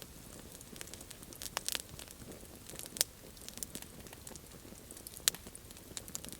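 Campfire wood crackling with irregular snaps, and two sharper pops about three seconds and about five seconds in.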